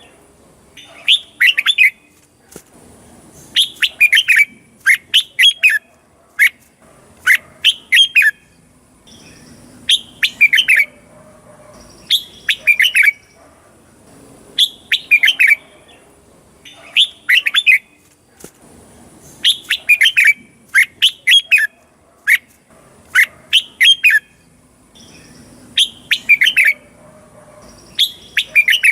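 Red-whiskered bulbul singing: short phrases of quick, bright whistled notes, repeated over and over every second or two.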